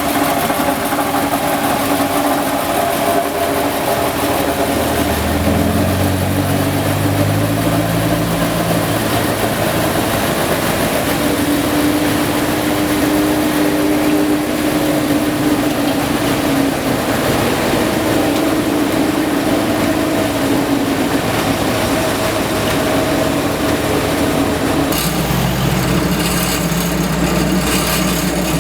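Heavy diesel road-paving machinery, an asphalt paver and rollers, running steadily, with the engine pitch shifting a few seconds in. Near the end a lower hum and a fast rattle join in.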